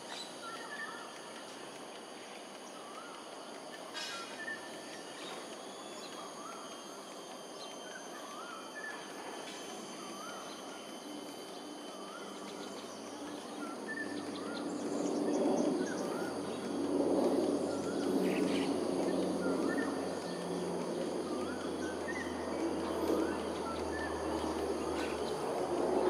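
Birds calling outdoors, a short up-and-down chirp repeated every second or two over a steady background hiss. From about halfway a louder, fuller low noise swells up and stays.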